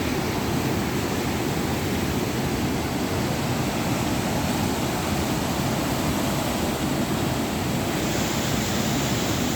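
Fast-flowing floodwater rushing past, a steady loud wash of water noise with no breaks.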